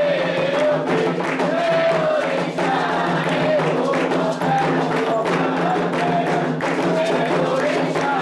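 Candomblé sacred music: atabaque hand drums played in a fast, dense rhythm under a sung melody with voices joining in.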